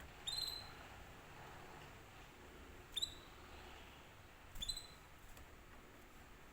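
Domestic canary giving three short, high call notes, each slightly falling: one just after the start, one about three seconds in, and a double one about four and a half seconds in, with quiet between.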